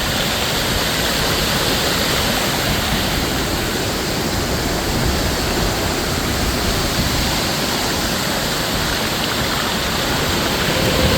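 El Charro waterfall, a waterfall that drops into the ocean, pouring with a steady, unbroken rush of water.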